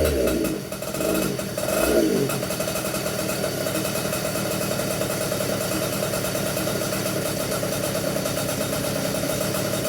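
142cc Komet K30 vintage two-stroke kart engine running on methanol during a break-in heat cycle. Its revs fall away at first and blip once about two seconds in, then it settles into a steady idle.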